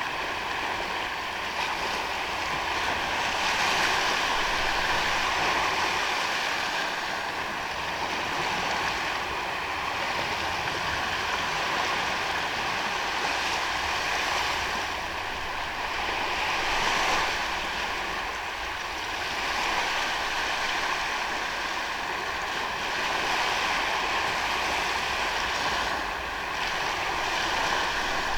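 Surf breaking and washing onto a sandy beach: a steady rush of waves that swells and eases every few seconds.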